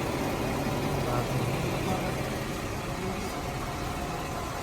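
Jeep Wrangler engine idling steadily, with an even low hum.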